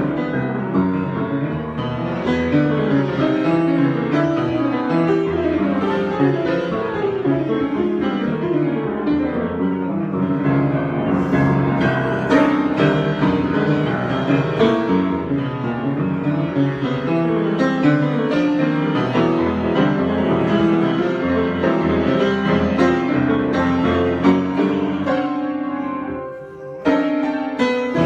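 Improvised piano playing, with dense runs of notes and sustained chords. Near the end it thins out briefly, then a loud new chord is struck.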